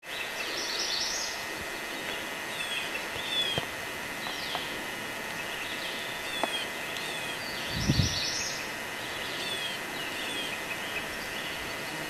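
Wild birds singing over a steady background hiss, with varied chirps and one song phrase repeated about seven seconds later. A brief low bump on the microphone comes about eight seconds in.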